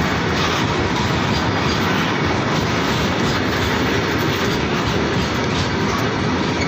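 Indian Railways freight train of loaded coal wagons rolling past: a steady, loud rumble and clatter of steel wheels on the rails.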